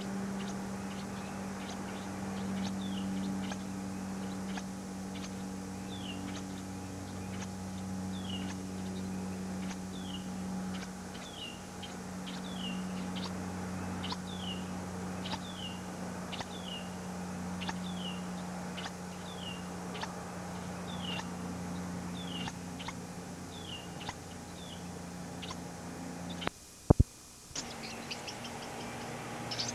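A small bird giving short, high, downward-sliding chirps, about one a second, over a steady low hum. Near the end the sound cuts out for about a second with a loud click.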